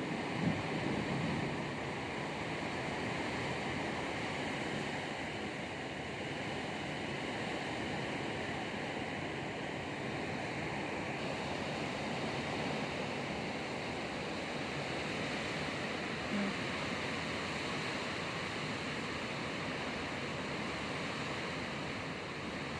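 Heavy rain pouring down steadily, an even hiss with no thunder claps.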